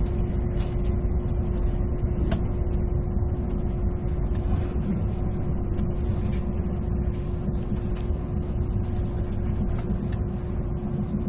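Passenger-cabin noise inside an E657 series electric train: a steady low rumble with a constant hum, and a few faint sharp clicks about two, eight and ten seconds in.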